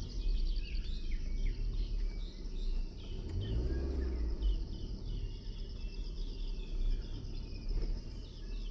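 Insects chirring steadily in a high pulsing drone, with small birds chirping now and then over it and a low rumble underneath.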